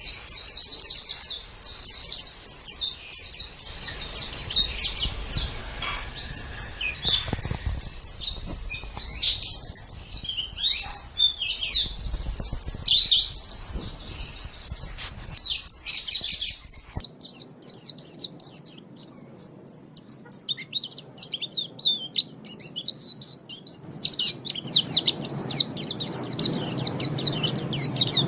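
White-eye (pleci) song: rapid, high-pitched twittering chirps in quick succession. About two-thirds of the way through, the recording changes abruptly, and near the end the twittering becomes faster and denser.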